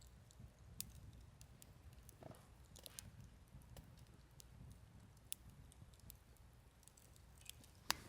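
Wood campfire crackling faintly: scattered sharp snaps and pops over a low steady rumble, with the loudest snap near the end.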